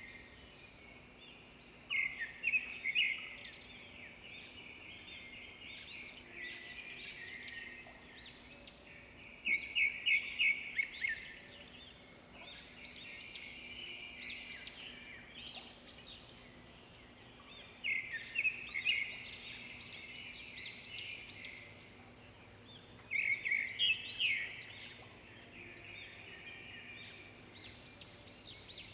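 Songbirds chirping and singing continually, with several birds calling at once and louder flurries of rapid chirps every several seconds.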